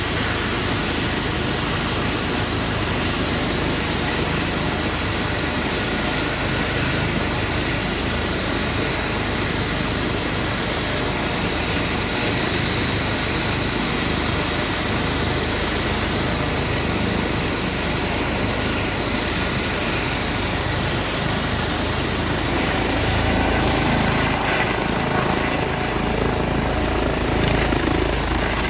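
Airbus EC135 P2 helicopter's turbines and rotors running steadily. In the last several seconds a thin high whine climbs in pitch and the sound grows slightly louder as power comes up ahead of lift-off.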